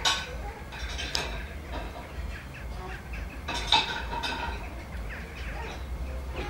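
Birds chirping in short, sharp calls over a steady low rumble, with the strongest calls at the start, about a second in, and near four seconds.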